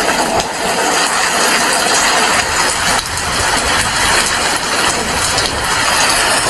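Steady heavy rain falling, a loud even hiss with no breaks.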